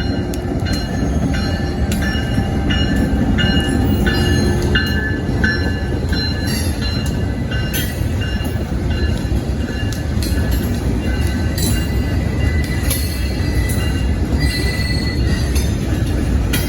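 CSX GP38-3 diesel locomotive and its freight train rolling slowly along street-running track: a steady low rumble with repeated short, high-pitched wheel squeals throughout.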